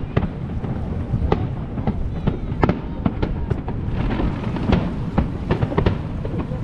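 Fireworks show bursting in a quick series of sharp bangs and cracks, about two a second, over a continuous low rumble.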